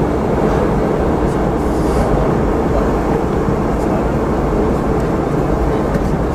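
Steady in-flight cabin noise of a Boeing 717-200: the drone of its rear-mounted Rolls-Royce BR715 turbofans mixed with airflow rushing past the fuselage, with a deep low rumble.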